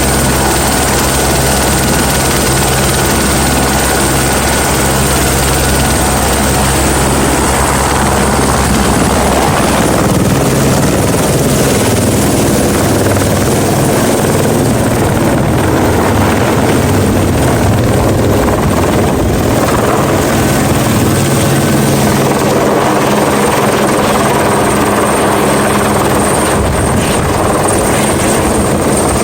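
Helicopter running steadily: a fast, even rotor chop under a constant high whine, which rises slightly in pitch several seconds in.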